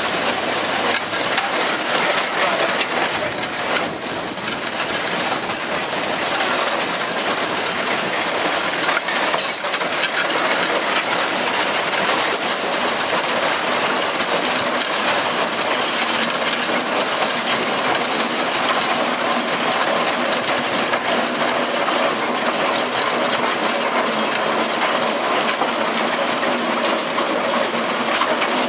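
1915 Case 65 hp steam traction engine travelling under its own steam: a steady, busy metallic clatter and rattle of its gearing and steel wheels, with no let-up.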